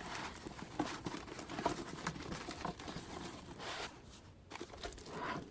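Packaging being handled during unboxing: light rustling with scattered small taps and clicks.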